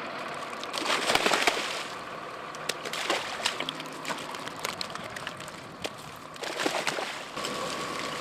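Water sloshing and splashing in bursts, about a second in, around three seconds and again near seven seconds, with sharp clicks and knocks between, over a steady faint hum. It is the sound of trout being released with their water into a lake during stocking.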